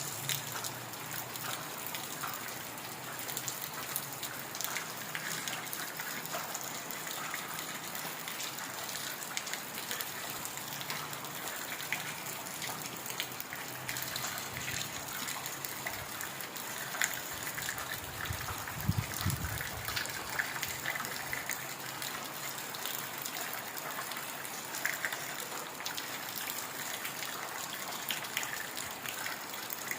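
Steady heavy rain falling in a forest, a dense even hiss with scattered drip ticks. A brief low rumble comes about two-thirds of the way through.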